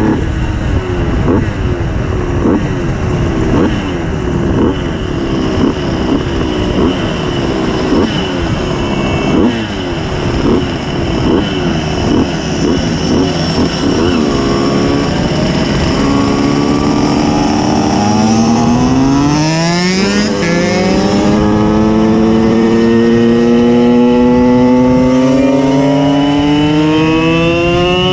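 Simson S51 moped's tuned 90 cc reed-valve two-stroke engine under way: for the first half its note rises and falls in quick short pulses, then it pulls steadily up in pitch, drops briefly at a gear change about two-thirds through, and climbs again.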